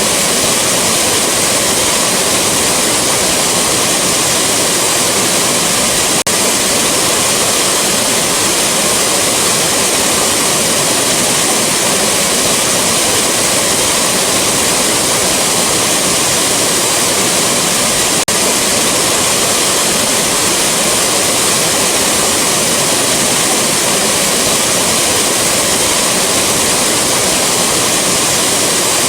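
Rushing waterfall: a loud, steady rush of falling water that never lets up, with two tiny momentary dips in level, about six and eighteen seconds in.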